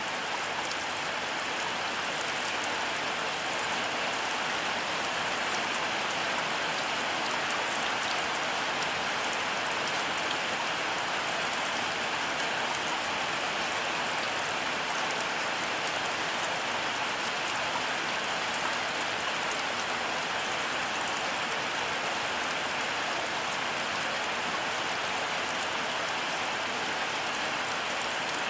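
Heavy rain falling steadily, a constant even hiss of countless drops with no thunder.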